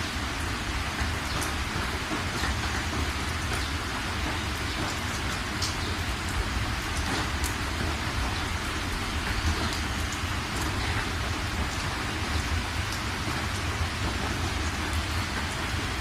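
Steady rain falling on a surface, with many individual drops ticking sharply against the constant hiss and a low rumble underneath.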